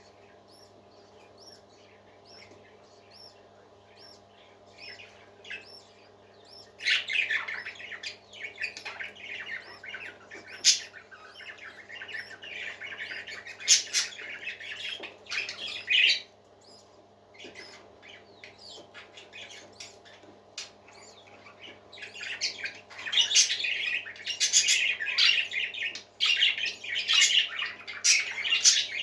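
Pet parakeets chattering and squawking, faint and sparse at first, then breaking into loud, busy chatter about seven seconds in and again in the last third, with a lull between. A steady low hum runs underneath.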